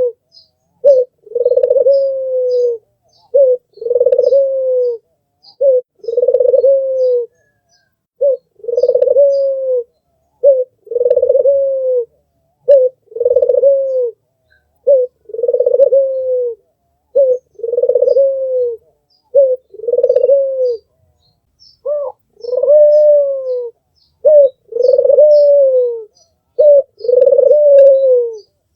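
Albino Barbary dove (puter) cooing over and over. Each phrase is a short note followed by a longer, slightly falling coo, repeated about every two seconds. Faint high chirps sound in the background.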